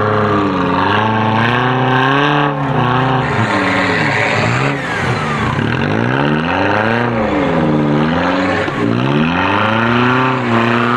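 A small 4x4's engine revving up and down again and again as the vehicle sits bogged in deep mud, the revs rising and dropping every second or two.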